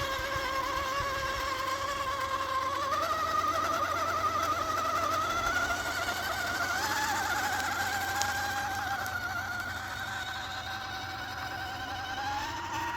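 Electric motor and geartrain of an Axial SCX10 II RC crawler whining as it crawls at low speed. The pitch wavers, steps up a little about three seconds in and again around seven seconds, then drops lower near the end.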